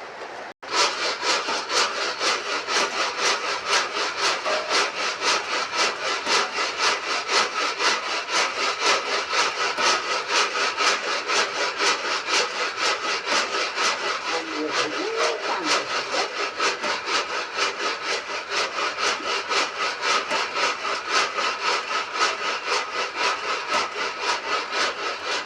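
Maize kernels being dry-roasted in a pan, stirred and scraped back and forth in a steady rhythm of about four strokes a second.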